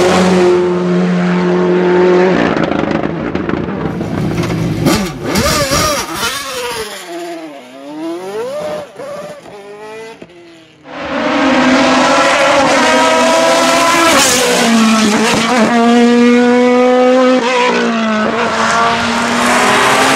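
Hillclimb race car engines at full throttle. One car's engine fades away over several seconds, its pitch rising and falling as it shifts gears. About halfway through the sound cuts sharply to another engine close and loud, climbing in pitch and dropping back several times with gear changes.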